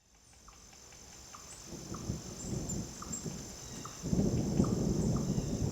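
Thunder rumbling low and long, fading in and growing louder about four seconds in, over a steady high-pitched drone and faint regular chirps.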